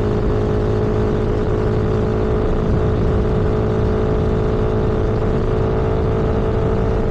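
Vehicle engine running at a steady cruising speed, its hum holding one even pitch, under a constant rush of road and wind noise.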